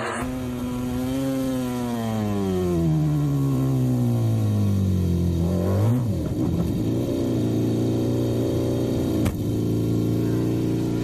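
KTM RC16 MotoGP racing motorcycle's V4 engine running hard. Its pitch falls steadily for about five seconds, jumps sharply just before six seconds, turns rough, then holds steady to the end. A single sharp click comes about nine seconds in.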